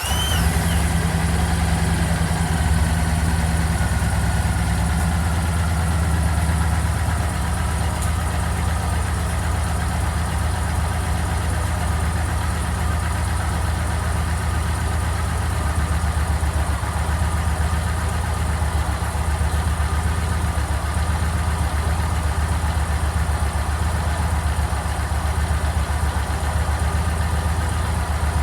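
Yamaha MT-01's 1670 cc V-twin engine catching at the very start and then idling steadily.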